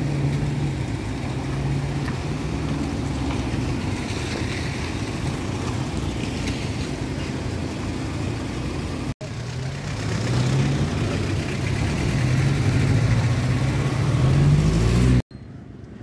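Car and pickup engines running as vehicles drive along a road, a low steady hum with road noise. After a sudden break about nine seconds in, an engine grows louder for several seconds, then the sound cuts off abruptly near the end.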